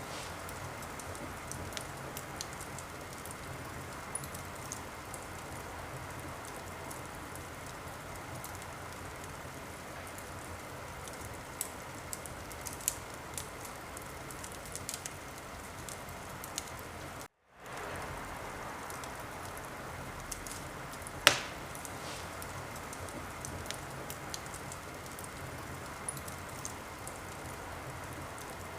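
Wood fire in a fireplace crackling over a steady hiss, with scattered small sharp pops and one loud pop about three-quarters of the way through. The sound cuts out completely for a split second a little past halfway.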